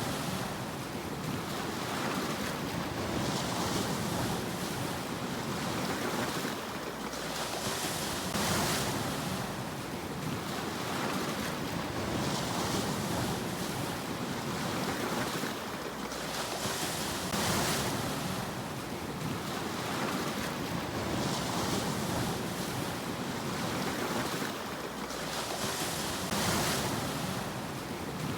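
Sea waves breaking in a steady cycle, each rush of surf swelling and washing back about every four to five seconds.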